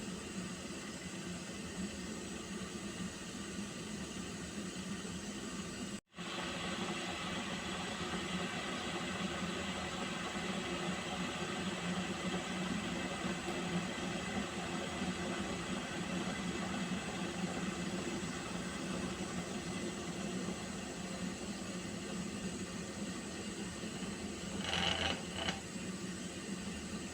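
Water heating to the boil, a steady hiss with a low hum underneath. The sound cuts out for an instant about six seconds in, and a short higher-pitched sound rises above the hiss near the end.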